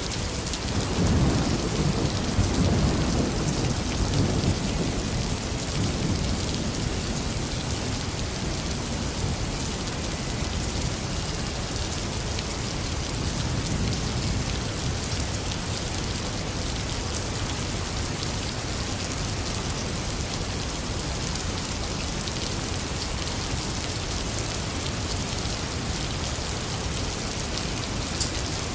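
Heavy rain falling steadily. A roll of thunder rumbles in about a second in and dies away over the next several seconds.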